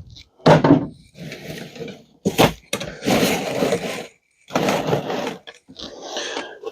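Scrap being handled around a bucket: a run of irregular short clattering and rustling noises, the longest about three seconds in.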